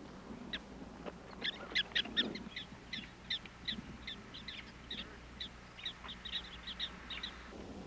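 Prairie dogs chirping: a run of short, high chirps, about three a second, starting about a second and a half in and stopping near the end.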